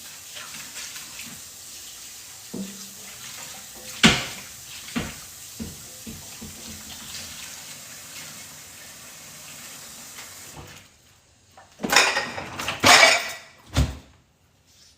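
Kitchen tap running into a sink with a couple of sharp knocks of dishes. The water stops about eleven seconds in, followed by loud clattering of pots and pans and a last knock near the end.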